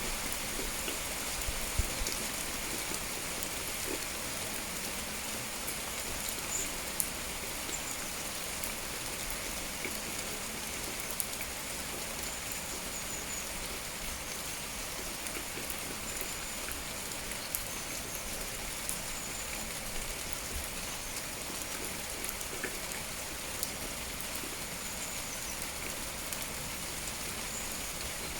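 Steady rain falling, with individual drops ticking now and then and a few faint, high bird chirps at intervals.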